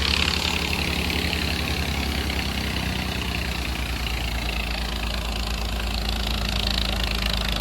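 Swaraj tractor's diesel engine running steadily, driving a thresher that is being fed wet harvested crop, with a constant rushing noise over the engine's low drone.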